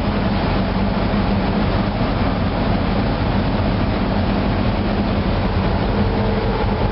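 Steady engine-room drone of a MaK 8M32 eight-cylinder medium-speed marine diesel running at about 600 rpm under load, with a constant low hum. A faint higher tone joins near the end.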